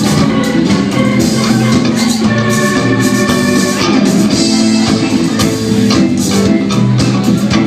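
Live band playing an instrumental passage, loud and continuous, over a steady drum beat.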